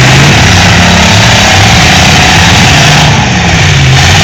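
Demolition derby cars' engines running hard and revving, several at once, the pitch rising and falling; very loud and distorted.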